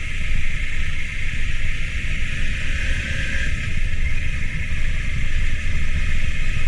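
Wind buffeting the microphone in a steady low rumble, over a vehicle running along the track, with a steady hiss above.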